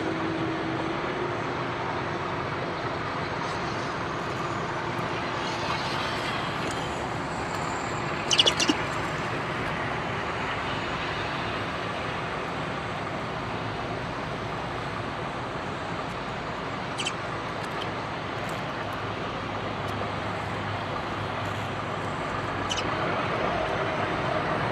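Steady hum of road traffic outdoors, with a few short high chirps from small birds cutting through it, the loudest about eight seconds in.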